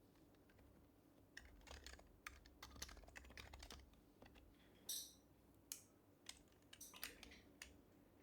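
Typing on an HHKB Professional HYBRID Type-S keyboard with its silenced Topre switches: a quick run of soft keystrokes, then a few scattered ones.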